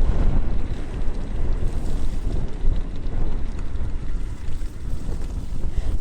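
Wind buffeting the microphone while riding an electric bike: a loud, gusting low rumble with no clear motor tone.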